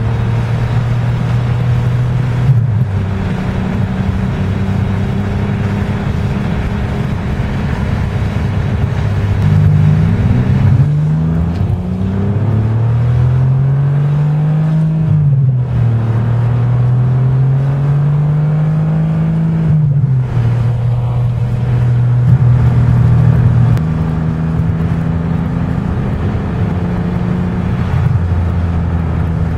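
Ferrari 575 Maranello's V12 engine heard from inside the cabin. It cruises steadily, then accelerates about a third of the way in, its pitch climbing and dropping sharply at two upshifts, before settling back to a steady cruise.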